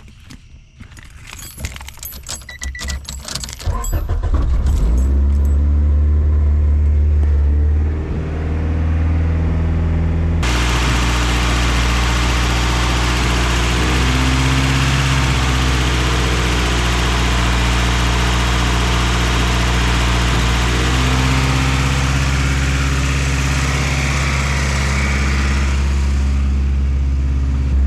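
Car engine cranked with clicks and rattling, catching about four seconds in with a brief rise in revs, then settling into a steady low idle on its first start after a new gasket was fitted. A steady rushing noise joins about ten seconds in.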